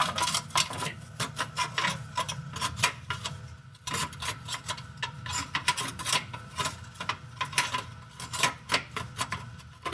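Metal hand tools working on exhaust manifold bolts: an irregular run of clicks and clinks of metal on metal, easing off briefly around three and a half seconds in.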